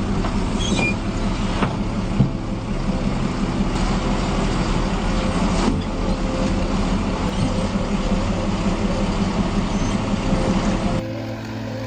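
Heavy vehicle engine running steadily under load. Near the end it changes abruptly to a slightly quieter engine sound.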